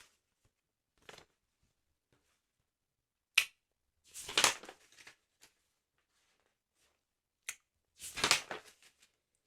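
Paper of a sticker album being handled: twice, a sharp click is followed by about a second of crisp paper rustling, a few seconds apart.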